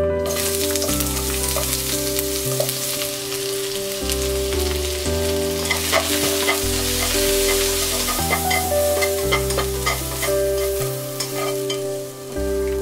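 Sliced onion stir-frying in hot oil in a nonstick wok: a steady sizzle that starts suddenly as the onion drops into the oil, with light clicks of chopsticks stirring against the pan.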